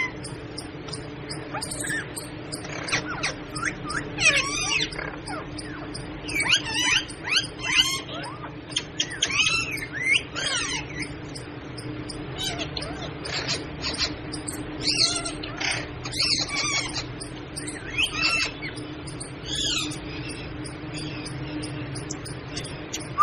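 Pet parrot calling: a run of short, squawking, warbling calls, several seconds apart, over a steady low hum.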